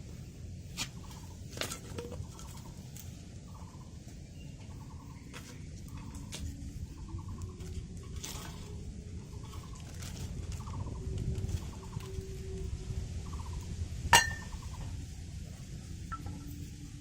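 An animal, probably a bird, calls in a run of short rattling calls roughly once a second over a steady low rumble. A single sharp click comes about fourteen seconds in.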